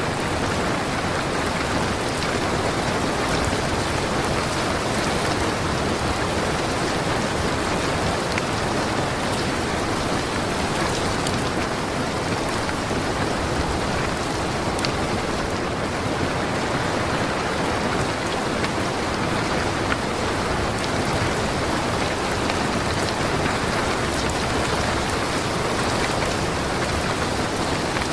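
Steady rain falling on surfaces: a dense, even hiss with a few faint scattered clicks.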